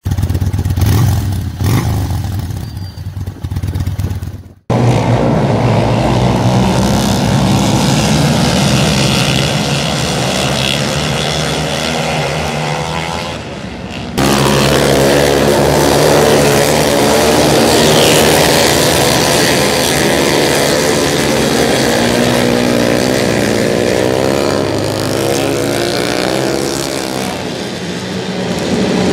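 Several flat track racing motorcycle engines running and revving, their pitches rising and falling against each other. The sound cuts off abruptly and resumes about five seconds in and again about fourteen seconds in.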